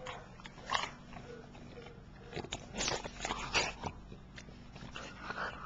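French bulldog snuffling and chewing in short, irregular bursts, loudest in the middle of the stretch.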